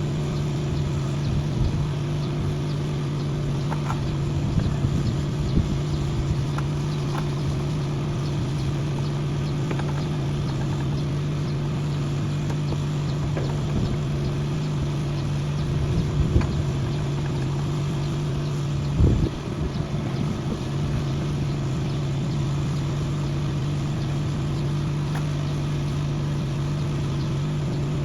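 An engine running steadily at idle, with a few short knocks; the loudest comes about nineteen seconds in.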